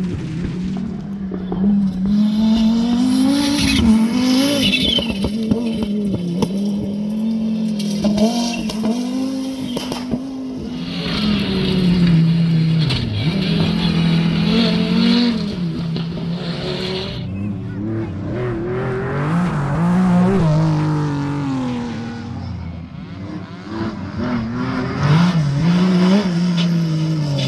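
Rally car engines at full throttle, the engine note repeatedly climbing and dropping with throttle lifts and gear changes, with some tyre squeal.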